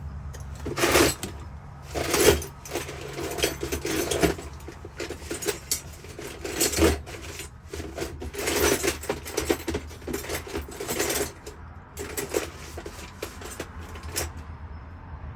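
Keys and small metal lock parts clinking and rattling as they are handled, in irregular bursts for about eleven seconds, then a few scattered clicks, over a low steady hum.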